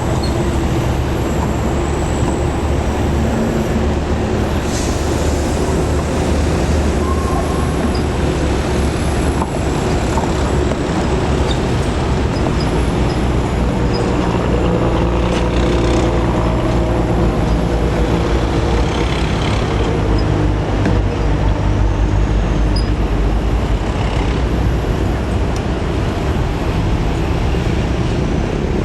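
Old Toyota DA100 truck's diesel engine running, a continuous low drone whose pitch shifts a little partway through.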